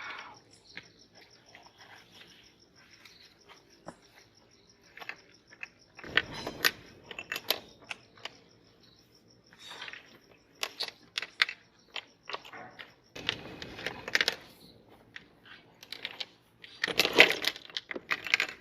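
Meat grinder crunching and crushing objects fed into it, in several bursts with clicks and cracks between, the loudest near the end. A faint high steady whine runs under the first half.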